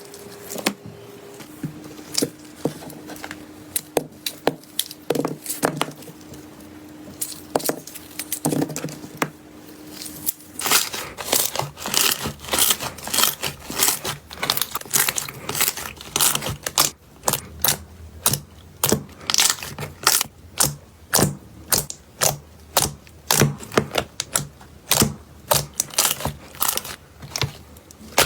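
Slime being squeezed and poked by hand, giving sharp crackling pops and clicks, sparse at first and then coming thick and fast from about ten seconds in.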